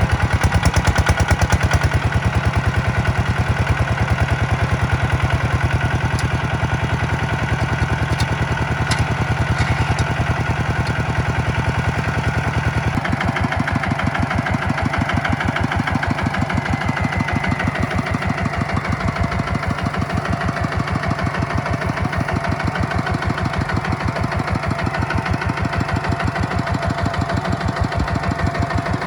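Tractor diesel engine running with a steady, fast chugging pulse. About thirteen seconds in, the deep low rumble drops away and the engine note changes, the pulsing becoming more pronounced.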